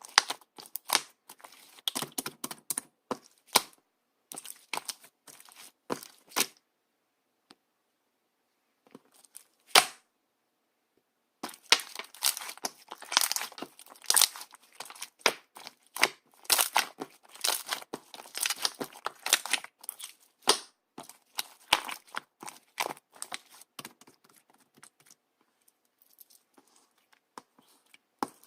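Clear slime being handled, stretched and pressed, giving sticky crackles and popping air bubbles. It stops briefly about seven seconds in, gives one loud pop near ten seconds, then crackles densely for about nine seconds before thinning out to scattered pops.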